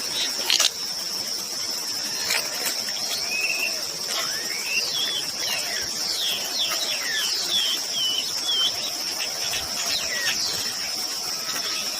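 A steady, high insect drone like crickets, with a run of short bird chirps and whistles over it in the middle, some rising and some falling.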